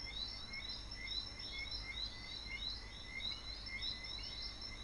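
Small birds chirping rapidly and repeatedly, several short calls a second overlapping, over a low steady rumble of outdoor background noise.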